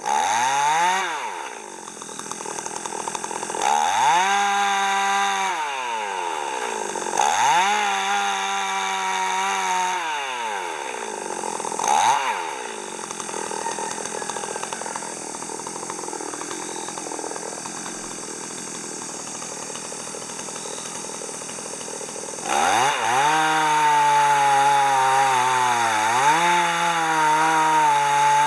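Two-stroke chainsaw revving up in several short bursts, settling to a steady idle for several seconds, then running at high revs again near the end, its pitch dipping briefly as it takes a cut.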